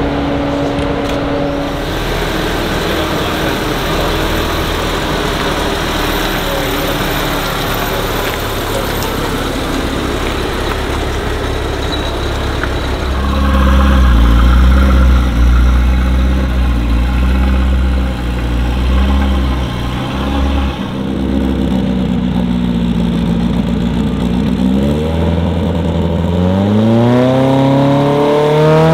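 Car engine running, growing louder about halfway through, then revving with its pitch climbing steeply near the end.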